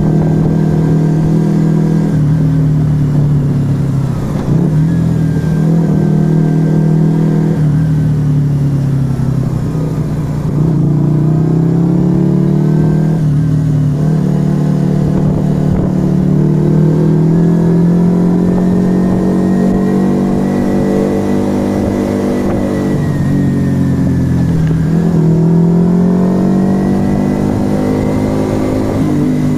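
Yamaha XV125 Virago's small air-cooled V-twin running through a Turbo Kit aftermarket exhaust while riding. The revs climb, drop and climb again several times.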